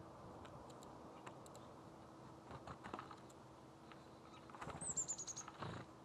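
A small songbird gives a high, thin call about five seconds in: a quick run of about six notes stepping down in pitch. Around it come scattered light clicks and taps, under a faint steady hum.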